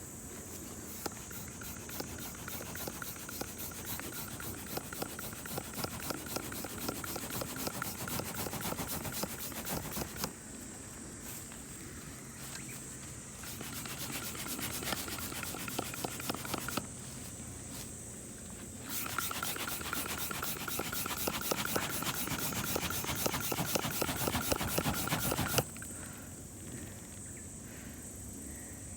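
Rapid scraping strokes in three bouts, each stopping abruptly: about 10 seconds in, about 17 seconds in and about 25 seconds in. A steady high-pitched tone runs underneath.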